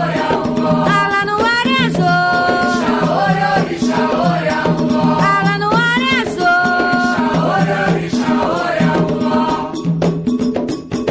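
Afro-Brazilian Candomblé chant: voices singing with sliding, rising notes over hand percussion and a rattle with a repeating low pulse. Near the end the singing gives way to a run of sharp percussion strikes.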